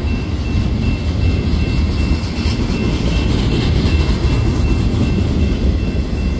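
Union Pacific double-stack intermodal freight train rolling past at close range: a loud, steady low rumble of wheels and well cars on the track, with faint clicks and a faint high, evenly pulsing tone over it.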